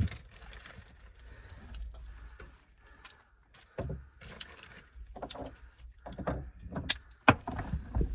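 Irregular clicks, knocks and clatter of parts and tools being handled during drain-line work, with the sharpest knocks about seven seconds in.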